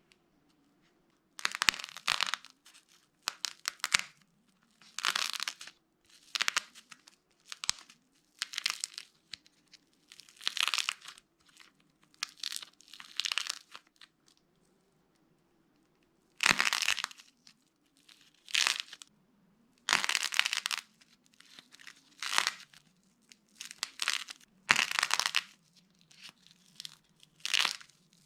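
A dry, brittle block being crushed and cracked, crunching and crackling in short bursts a second or two apart, with a longer pause about halfway through.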